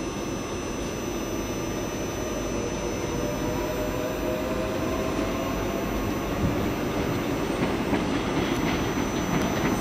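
Passenger train running slowly through the station: a steady rumble of wheels on track, with a faint whine for a few seconds in the middle and a few light knocks from the wheels later on.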